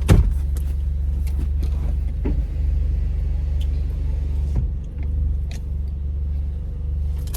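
Car engine idling, a steady low rumble heard from inside the cabin, with a sharp knock at the start and a couple of fainter clicks.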